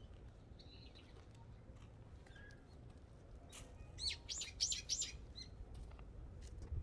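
A small bird calling: a few faint high chirps, then about four seconds in a quick run of four loud, high notes, each sweeping downward. A low rumble runs underneath.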